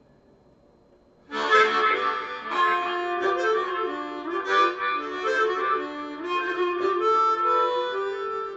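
Blues harmonica playing a phrase of held and bending notes, coming in suddenly after a second of near silence.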